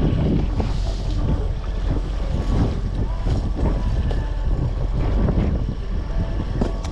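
Fishing boat under way in high wind and big waves: a steady motor drone with water rushing and splashing against the hull, and wind buffeting the microphone.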